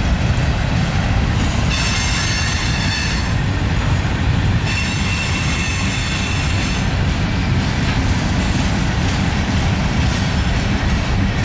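Norfolk Southern manifest freight cars rolling past on the rails: a steady, loud rumble of wheels on track. High-pitched wheel squeal comes in twice, about two seconds in and again about five seconds in.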